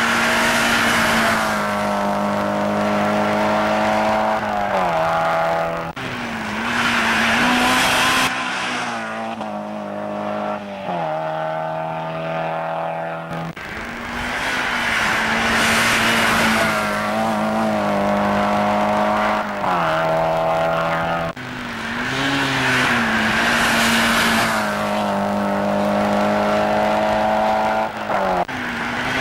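Mazda MX-5 race car engines running hard on track, the engine note climbing and dropping in pitch as the cars rev and change gear. The sound changes abruptly several times, about 6, 13 and 21 seconds in.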